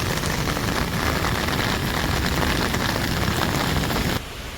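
Heavy rain falling, a dense steady hiss with wind on the microphone, which cuts off abruptly near the end.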